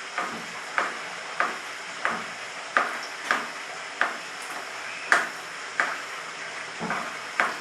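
Knife chopping vegetables on a cutting board: a steady run of sharp taps, about one every half second or so.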